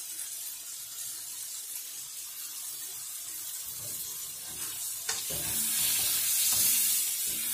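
Sliced kielbasa, bell peppers and onions sizzling in a hot skillet. About four seconds in a wooden spoon starts stirring them, knocking and scraping against the pan, and the sizzle grows louder.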